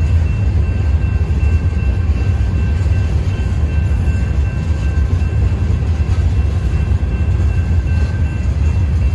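Loaded hopper and gondola cars of a Union Pacific ballast train rolling past over a grade crossing: a steady, loud low rumble of wheels on rail, with faint steady high tones above it.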